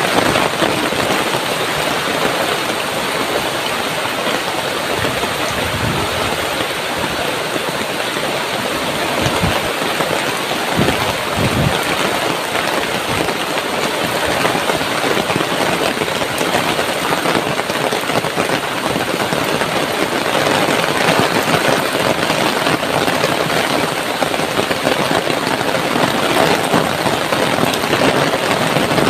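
Heavy tropical rain pouring down steadily: a dense, even hiss of rain.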